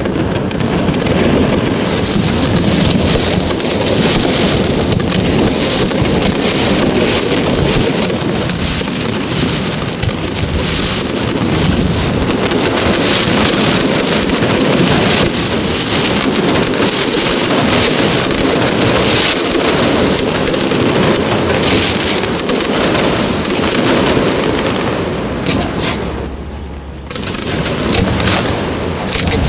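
Fireworks display going off in a loud, dense barrage of booms and crackling bursts, with a short lull about 26 seconds in.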